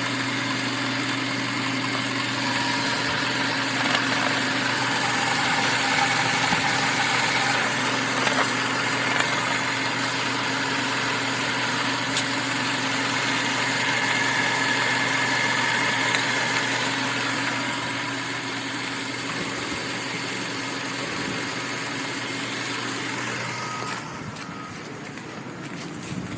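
Subaru Forester's 2.0-litre flat-four petrol engine idling steadily, heard from the open engine bay; it grows fainter about two seconds before the end.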